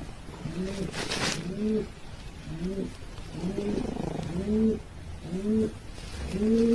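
An animal making a run of short cooing calls, about ten, each one rising then falling in pitch and repeating at a steady pace.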